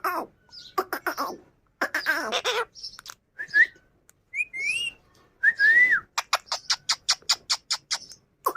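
Indian ringneck parrot giving raspy, harsh calls, then short whistled notes that rise and fall. It ends in a rapid run of sharp chirps, about six a second.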